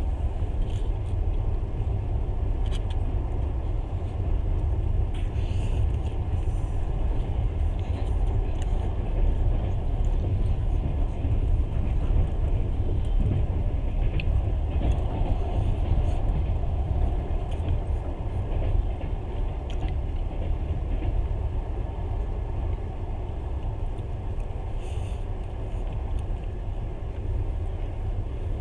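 Steady low rumble of a passenger train running, heard from inside the carriage, with a few faint clicks from the wheels and rails.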